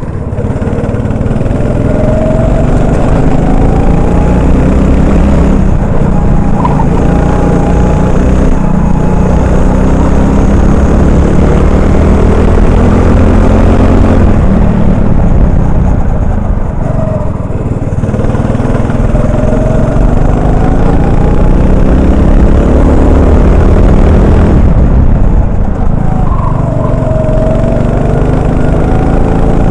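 Honda 390 cc four-stroke kart engine heard from the driver's helmet, revving up through the gears on the straights and falling away twice as it lifts for corners, about halfway through and again near the end.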